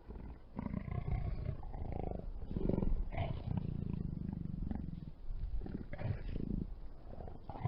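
A large predator growling: a run of low, rough growls in uneven pulses that starts suddenly out of silence.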